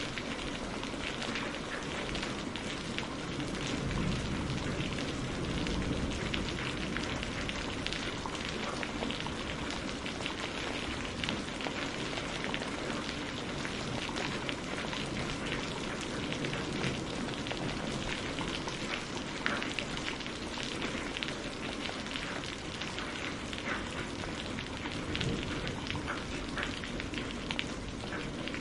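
Steady rain falling on a greenhouse roof, a constant hiss with many separate drop hits ticking through it.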